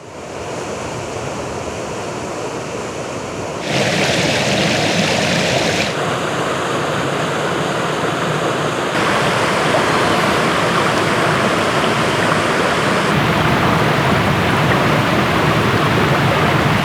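Waterfall pouring, a steady rush of water that changes level abruptly several times and is louder from about four seconds in.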